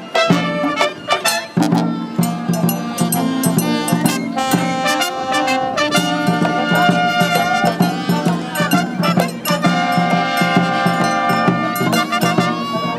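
Live brass band playing a lively tune, brass carrying the melody over sharp percussion strokes.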